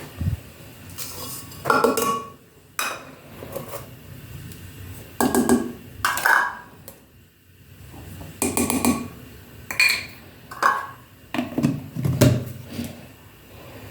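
Kitchen utensils clinking and knocking against dishes, about a dozen separate clatters, some with a short ring.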